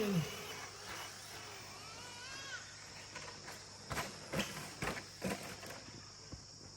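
Electric 2WD short course RC trucks racing: motor whine gliding up and down in pitch as they accelerate and brake, then a few sharp knocks about four to five seconds in.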